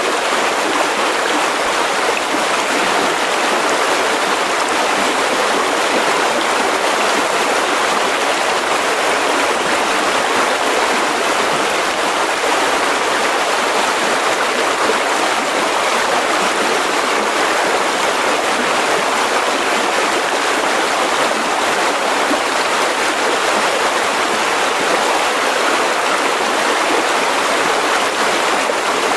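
Mountain river rushing steadily over rocks, a constant full water noise with no breaks.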